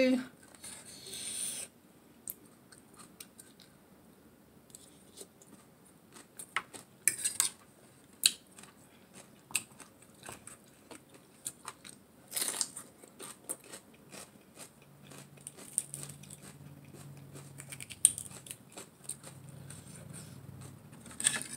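Close-up eating sounds of a person chewing crunchy shredded-carrot salad (Lao tum carrot): irregular small crunches and mouth clicks, with a few sharper clicks along the way.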